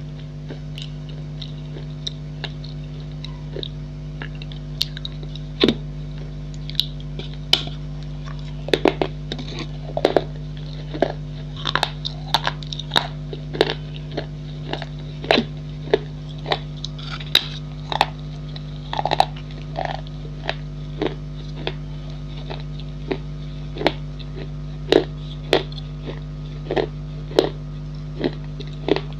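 Pieces of a baked clay pot bowl being bitten and chewed, giving irregular sharp crunches over a steady low hum.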